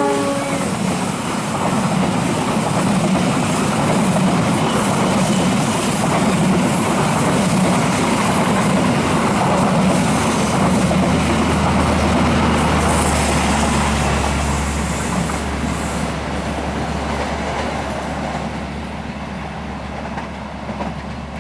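Long passenger train's carriages rolling past at speed, the wheels rumbling and clattering on the rails; the locomotive's horn cuts off just as it begins, and the noise eases off toward the end as the train draws away.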